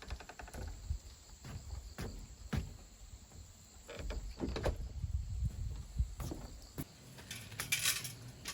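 Irregular light knocks and clicks of things being handled, with a short rustling hiss near the end.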